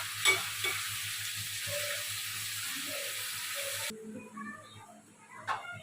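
Onions frying in hot oil in a kadai, a steady sizzle that cuts off abruptly about four seconds in. Then a few faint utensil clinks and a sharper knock near the end.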